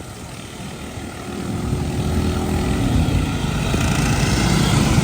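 Engines of racing lawn mowers running, growing steadily louder from about a second in as the pack comes closer.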